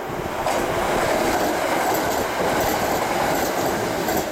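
Kintetsu limited express electric train passing through the station at high speed without stopping: a steady rush of wheels on rails, building over the first second, then staying loud until it drops away near the end.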